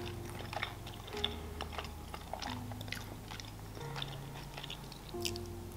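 Close-miked chewing and wet mouth clicks from eating boiled pelmeni dumplings with sour cream, with a sharper click about five seconds in. Soft background music with slow, held notes plays underneath.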